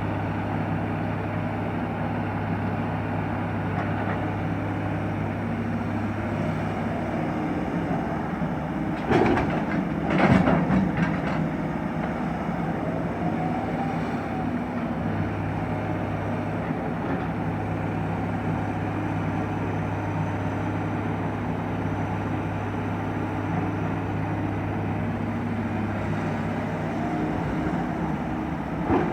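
Excavator's diesel engine running steadily, with two loud metallic clanks about nine and ten seconds in.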